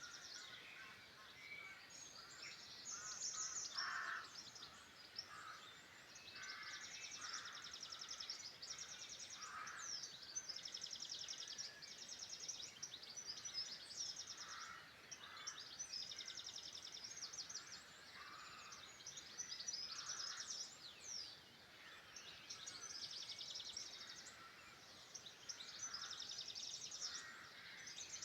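Several songbirds singing at once: high, rapid trilled phrases of a second or so repeat every couple of seconds, with shorter lower notes in between.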